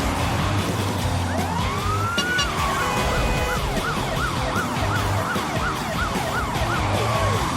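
Emergency-vehicle siren: one slow rising wail, then a fast yelp of repeated sweeps, about three a second, with music and a car engine underneath.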